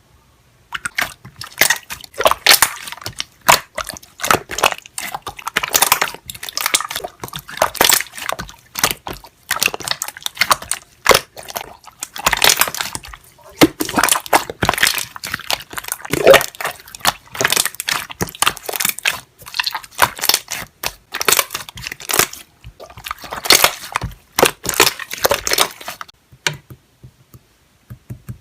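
Slime being squeezed and pressed, its trapped air bubbles popping in quick, irregular runs of pops and squelches; the sound stops about two seconds before the end.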